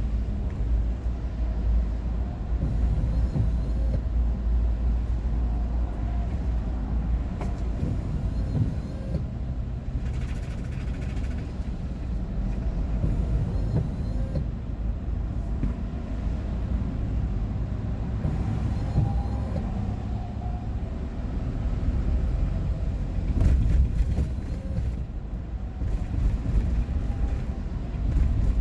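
Steady low rumble of a vehicle driving along, heard from inside the cabin: engine and road noise.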